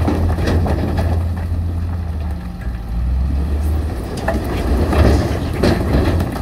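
Heavy construction machine's diesel engine running under load, its note shifting lower about two and a half seconds in, with scattered clanks and clatter of rock and steel in the second half.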